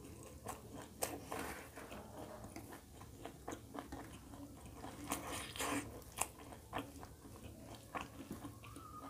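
Close-up chewing and eating sounds of a person eating roti with egg curry by hand, with irregular short clicks of chewing and biting, busiest about halfway through.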